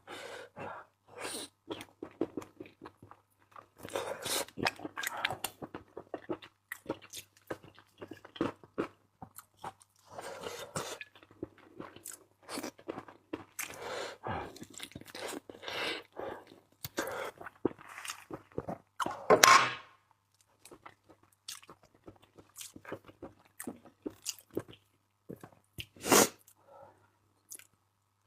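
Close-miked eating of seafood: chewing, smacking and crunching in irregular bites, with the loudest crunch about two-thirds of the way through and another sharp crack near the end.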